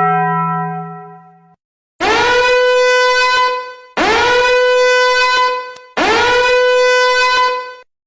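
Three long, identical horn-like blasts about two seconds apart, each scooping up in pitch at its start and then holding one note. They follow a short, lower, fading tone at the start.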